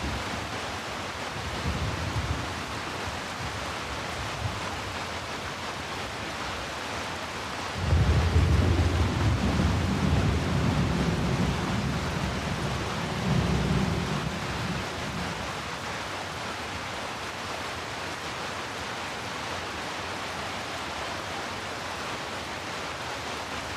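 Steady rain hiss, with a low rumble of thunder that starts suddenly about a third of the way in and dies away over several seconds.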